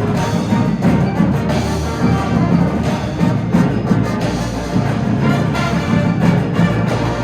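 Indoor winds-and-percussion band playing live: sustained brass and wind chords over steady percussion hits.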